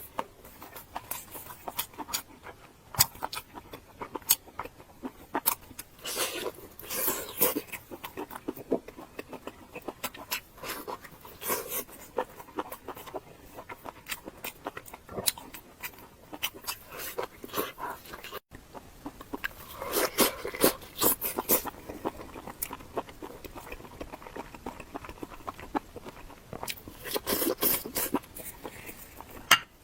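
Close-miked eating sounds: chewing with many sharp wet mouth clicks, coming in denser bouts every few seconds.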